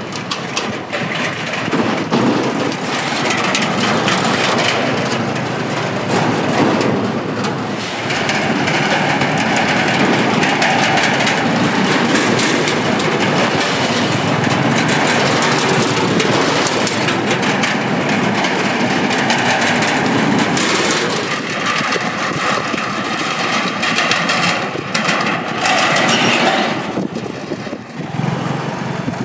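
Motorbikes crossing the Cẩm Kim steel bridge in a steady stream: engines running over a continuous metallic clatter from the bridge deck under their wheels.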